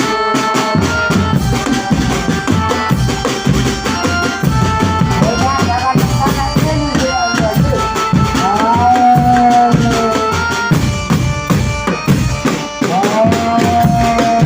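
Loud East Javanese folk music of the jaranan kind: hand drums beating busily under a melody line that slides up into long held notes.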